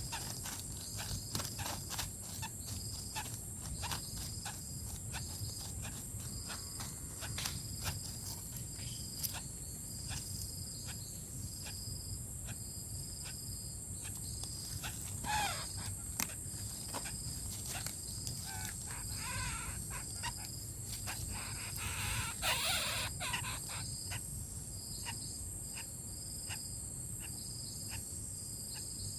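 Insects buzzing steadily in rural undergrowth, one high chirp repeating a little faster than once a second, over many small clicks and rustles of movement. A few short wavering calls come around the middle.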